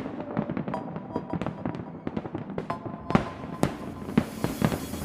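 A fireworks display: many sharp bangs and crackling pops in quick, irregular succession, with a couple of louder bangs about three seconds in.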